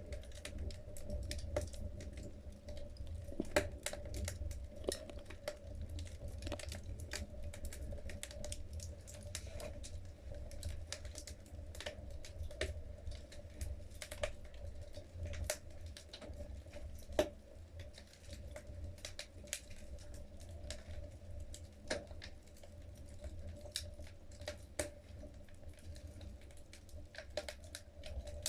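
Logs crackling in a wood-burning fireplace, with irregular sharp pops, some louder than others, over a steady low rumble.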